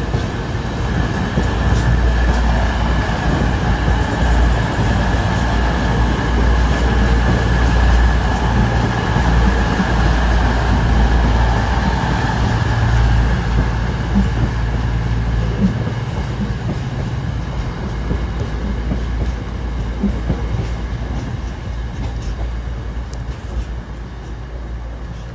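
East Midlands Railway Intercity passenger train passing close by at speed, a continuous rumble of wheels on rails. It is loudest in the first half and fades steadily over the last several seconds as it draws away.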